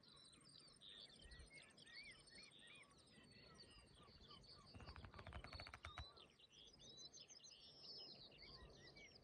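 Faint songbirds singing in a busy overlapping chorus of chirps and warbling trills, over a low wash of distant surf. A quick run of sharp clicks comes about five seconds in.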